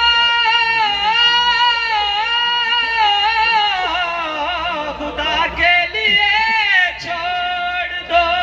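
A singer drawing out long, wordless notes with a wavering pitch, with short breaths between phrases, as part of a song performance.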